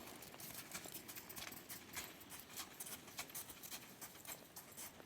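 Hooves of a Saddlebred gelding clip-clopping as it moves: an irregular run of sharp clicks and knocks.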